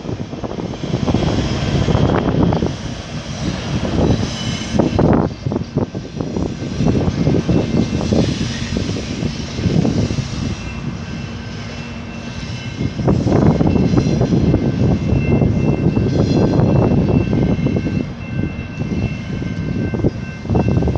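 Low, steady rumble of a large engine, swelling and easing, with wind buffeting the microphone in irregular gusts.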